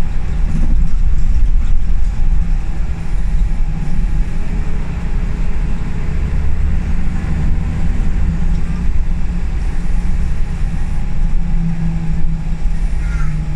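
Scania L94UB single-deck bus heard from inside the saloon while on the move: a steady low engine and road rumble, with a clearer engine note coming through near the end.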